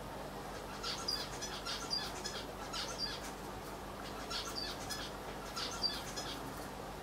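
Small birds chirping in short clusters of high notes, one cluster every second or so, over a steady low hum.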